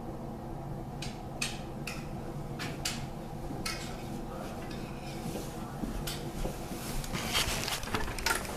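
Scattered light clicks and knocks of household objects being handled, over a steady low hum, with a denser rustling clatter near the end.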